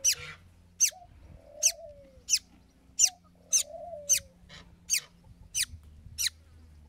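A bird repeating a short, sharp chirp that falls in pitch, about once every two-thirds of a second, with a few softer, lower falling calls in between during the first few seconds.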